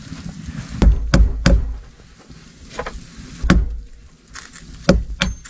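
A series of sharp knocks and thuds: three in quick succession about a second in, then single knocks and a pair near the end.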